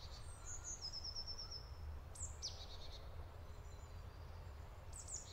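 Small songbirds calling in woodland: a short rapid trill of high notes about half a second in, then a few quick high chirps that dip in pitch around two seconds in and again near the end. A faint steady low rumble runs underneath.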